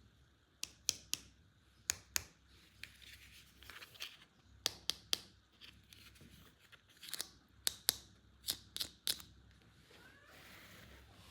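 Toy packaging being handled and opened: a run of sharp, irregular clicks and snips in small clusters, with short quiet gaps between.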